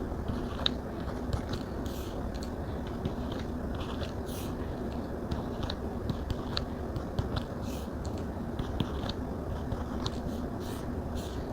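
Stylus tapping and scratching on a Samsung Galaxy Tab screen while writing and drawing. There are short, irregular taps and strokes, several a second, over a steady low hiss.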